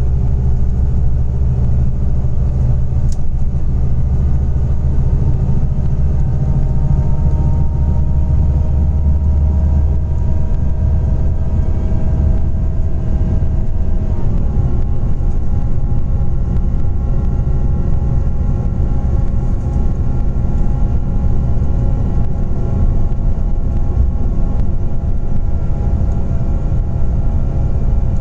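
Scania Interlink coach's natural-gas engine running under way: a steady low rumble with whining tones that step to a new pitch about halfway through.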